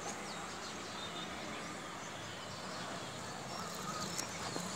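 Outdoor background noise with a few short, faint bird chirps, mostly in the second half.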